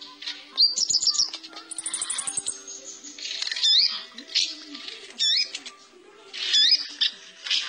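Kolibri ninja, a small sunbird, singing: quick bursts of high chirps and rapid trills mixed with swooping whistled notes, in several phrases with short pauses between.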